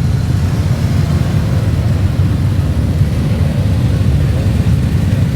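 Steady low rumble of car traffic as cars arrive and queue in, with no single engine standing out.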